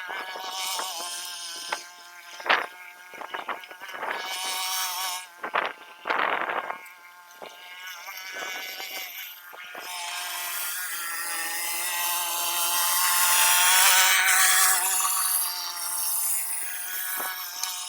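A small petrol engine running with a high buzzing whine, growing louder in the second half, with several sharp scrapes or knocks in the first few seconds.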